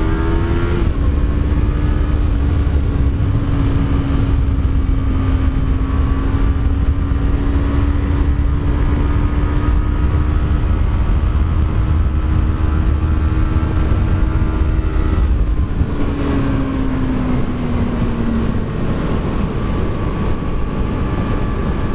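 Yamaha R3's parallel-twin engine shifting up just under a second in, then holding a steady high-revving drone at speed over heavy low wind rumble. About fifteen seconds in the pitch falls as the throttle is eased off.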